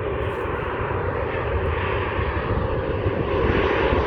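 Jet airliner approaching, its engine noise steady and growing gradually louder. The spotter takes it for a Boeing 737.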